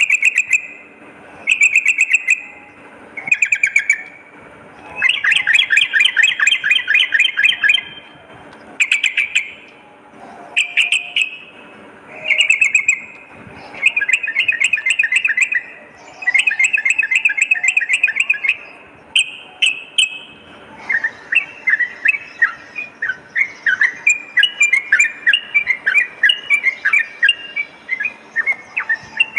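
Yellow-vented bulbul (trucukan) song: short bursts of rapid, bubbling chattering notes repeated with brief gaps between them, then a long unbroken run of quick chatter from about two-thirds of the way through.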